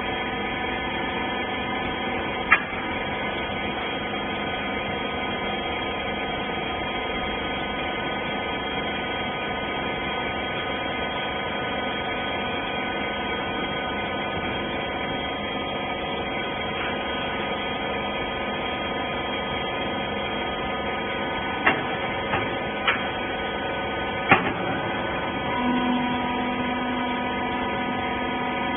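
Hydraulic horizontal bagging baler running with a steady multi-tone hum from its motor and pump. There is a sharp click a couple of seconds in, a quick run of four clicks or knocks a few seconds before the end, and a second steady tone joins near the end.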